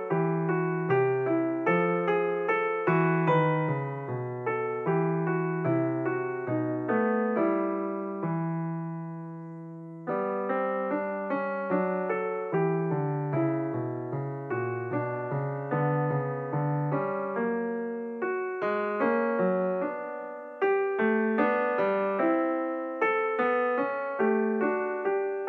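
Background piano music: a melody of struck notes over a lower accompaniment, with one held chord fading away about eight seconds in before the playing resumes.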